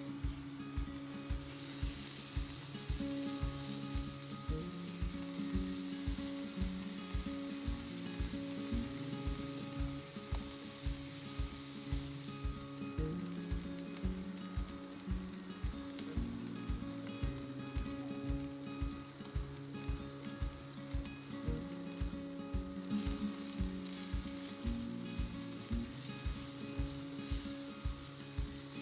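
Diced chicken frying in olive oil in a pan, a steady sizzle, now and then stirred with a silicone spatula. Acoustic folk instrumental music with a steady beat plays over it and is the loudest sound.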